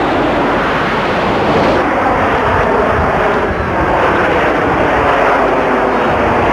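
Jet noise from a formation of BAe Hawk trainers with Rolls-Royce Turbomeca Adour turbofans flying past, a loud steady rush with a faint falling pitch.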